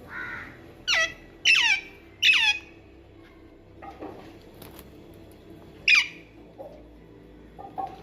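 Pet Psittacula parakeet squawking: three short, harsh calls falling in pitch in quick succession, then one more a few seconds later.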